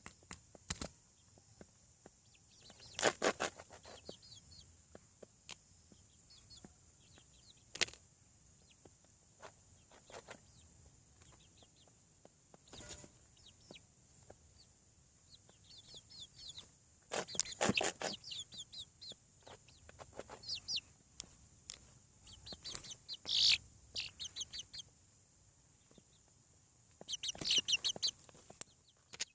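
Young chickens, about seven weeks old, peeping and clucking in irregular bursts of high-pitched calls, with a few sharp taps between them.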